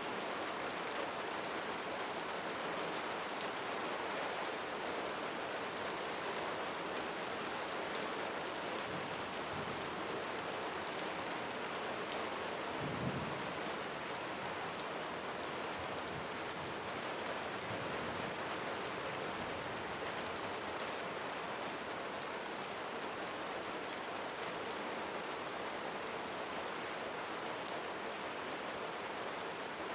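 Steady rain falling on leaves, an even hiss with many fine drop ticks. A brief low rumble comes about halfway through.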